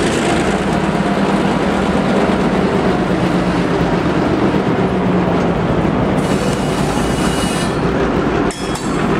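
A freight train of EMD GP15-1 diesel locomotives and empty covered hopper cars passing close by, engine running, with the car wheels rolling over the rails. A faint high wheel squeal comes in about six seconds in.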